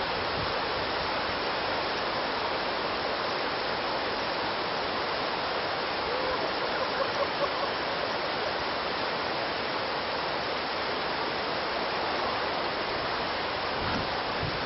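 Fast-flowing whitewater of a canoe course rushing steadily.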